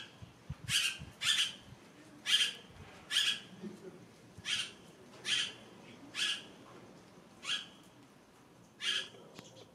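A bird giving short, harsh calls over and over, about nine in all, roughly one a second at a somewhat uneven pace.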